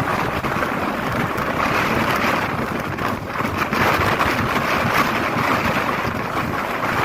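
Strong gusting wind, a dense rushing noise that swells and eases, loudest about four to five seconds in.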